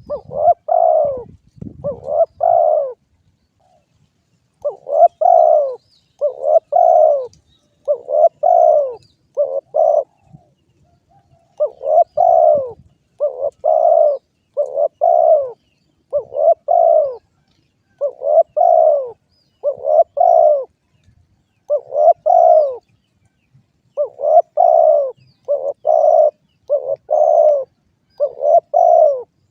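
Spotted dove (derkuku) cooing: short coos, often in pairs, repeated over and over with a few brief pauses.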